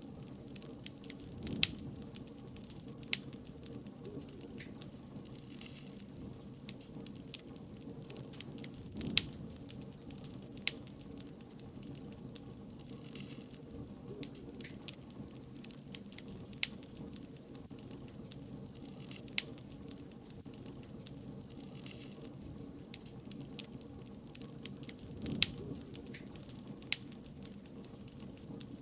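Wood bonfire crackling: irregular sharp pops and snaps, a dozen or so of them loud, over a low steady rush of the burning fire.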